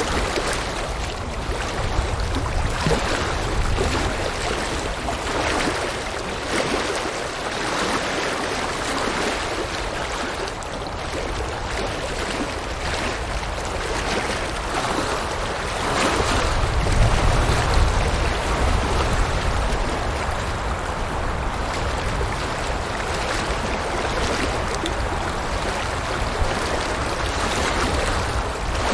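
River water rushing and splashing steadily, with a deeper rumble that swells for a couple of seconds about halfway through.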